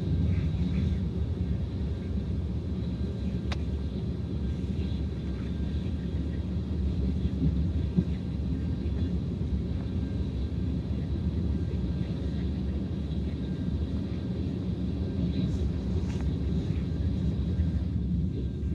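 Train running past, a steady low rumble with no horn.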